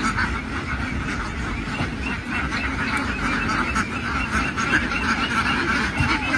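A large flock of domestic ducks quacking all at once, a dense steady chatter of many overlapping calls, with a low rumble underneath.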